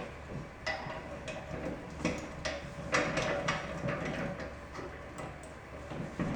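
Metal parts of a Rubi TS50 tile snap cutter being handled, with a scattered series of light clicks and knocks as the scoring wheel and handle are fitted.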